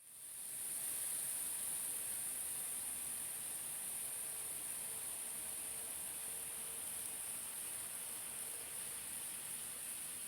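N-gauge Shinkansen model train running on its layout track: a steady, very high-pitched hiss with a faint hum that comes and goes.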